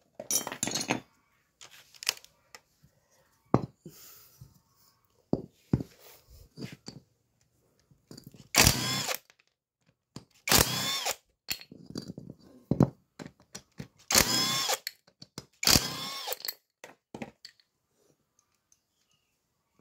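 Handheld power driver run in four short bursts of about half a second each, whining up in pitch, while the valve gear on a Honda Supra 125 cylinder head is taken apart. Scattered clicks and knocks of tools on metal fall between the bursts.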